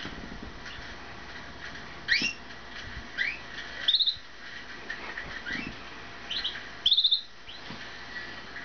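Canary chirps and brief rapid trills, a few short calls spaced about a second apart, with louder trills about four and seven seconds in.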